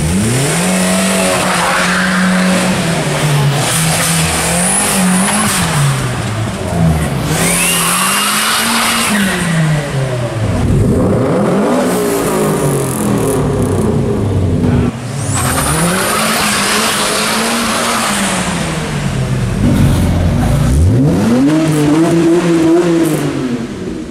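Modified Japanese cars revving their engines one after another inside a concrete underpass, the engine note rising and falling in repeated blips. A high whistle rises over the revs about a third of the way in and again about two-thirds through.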